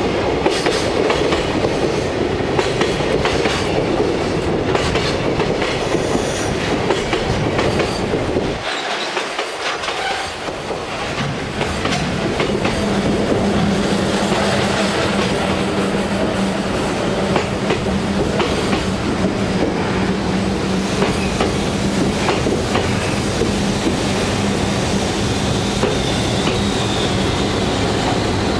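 Container freight train rolling past, wheels clattering over the rail joints. A steady hum joins in about twelve seconds in, and a short falling squeal comes near the end.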